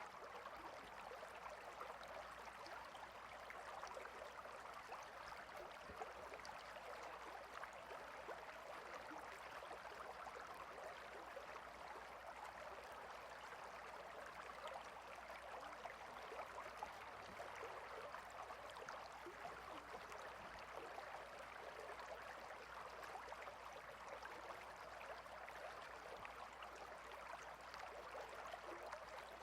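A stream of water running steadily, a faint, even rush of flowing water with no pauses.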